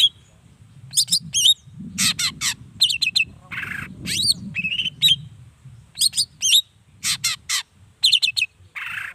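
Long-tailed shrike (cendet) singing in full voice: quick clusters of short, sharp whistled notes and sweeping rising-and-falling calls, broken about a third of the way in and again near the end by a harsh, grating rasp.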